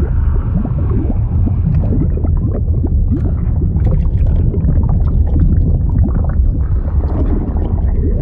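Continuous liquid sound effect of water gurgling and bubbling over a deep, steady rumble, with many small bubbles rising and popping.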